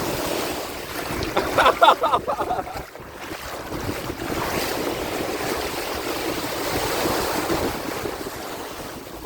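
Sea waves washing onto a beach, with wind buffeting the microphone. Faint voices come through briefly about two seconds in.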